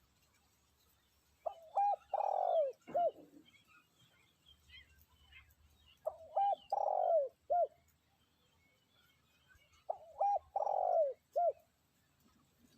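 Spotted dove cooing, a decoy bird's call for luring wild doves: three phrases about four seconds apart, each two short notes, a longer falling coo and a short closing note.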